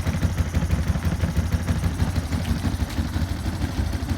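Suzuki Address V125G scooter's 125 cc single-cylinder four-stroke engine idling steadily with an even, rapid putter.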